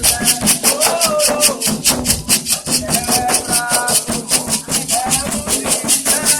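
Candomblé toque for Xangô: a shaker rattle keeps a steady fast pulse of about six strokes a second over low drum beats, with voices singing short phrases.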